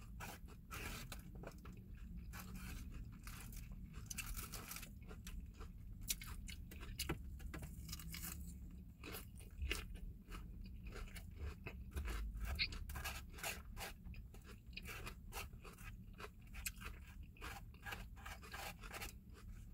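A person chewing a mouthful of salad close to the microphone: a steady run of short, irregular crisp crunches.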